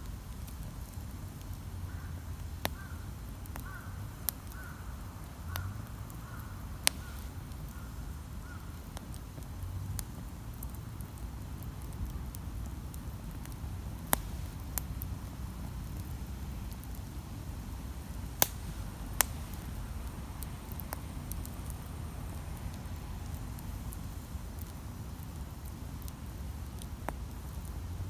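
Wood campfire burning with a steady low rumble and sharp crackles and pops scattered through it, a few of them louder. For the first several seconds a bird calls over it in a short repeated series of about eight notes.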